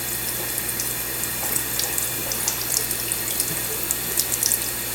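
Kitchen-sink tap running steadily, the stream splashing onto a wet bird and into the sink with small irregular splashes.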